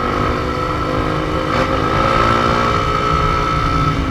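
Motorcycle engine running steadily under way, with a rumbling low end and an even engine note.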